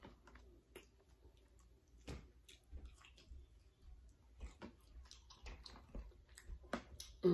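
Soft chewing and small, irregular mouth clicks from someone eating French fries and chicken fingers, with faint handling sounds from a foam takeout box.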